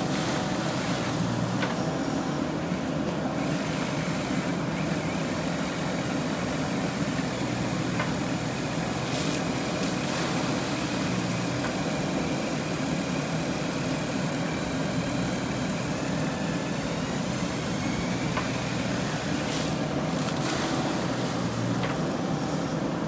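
JCB 3DX backhoe loader's diesel engine running steadily, with a few faint clicks.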